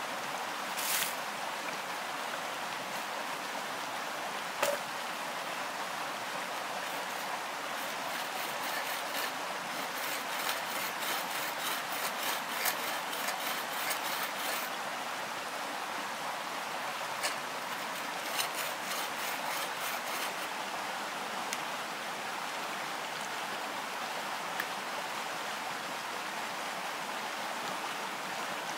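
Steady rush of flowing water, with runs of quick light ticks over it about a third of the way in and again past the middle.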